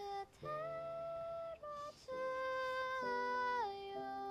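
A woman's voice singing or humming a slow, gentle melody in long held notes, the pitch stepping down a little past the middle.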